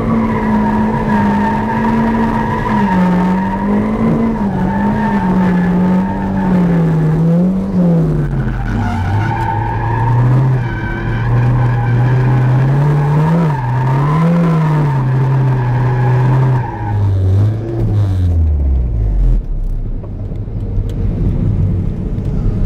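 Toyota MR2 (SW20) engine heard from inside the cabin, its revs rising and falling as the car is thrown through tight turns, with tyres squealing over it. About seventeen seconds in the squeal stops and the engine winds down to a low idle.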